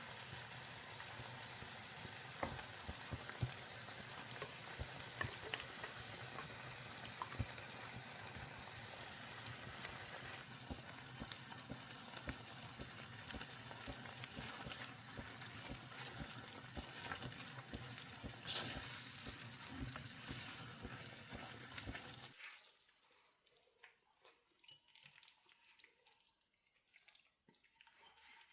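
Water running steadily from a kitchen tap, with small splashes and one sharp clatter near the end. The water is turned off about 22 seconds in, leaving only faint drips.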